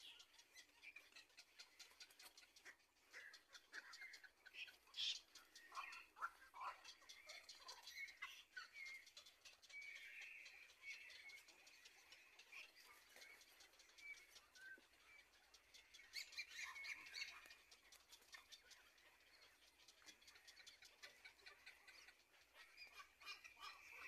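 Faint bird chirps and short calls, scattered through, busier a few seconds in and again past the middle, over a fast, faint ticking.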